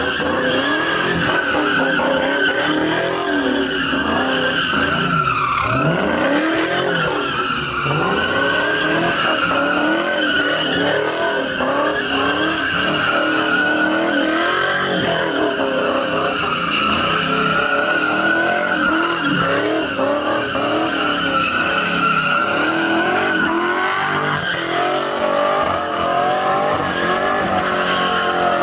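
Car doing donuts with its tires screeching continuously, the engine revving high and rising and falling in pitch.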